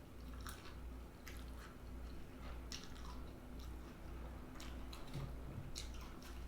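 A person chewing food close to the microphone: a run of short, irregular mouth clicks, over a low steady hum.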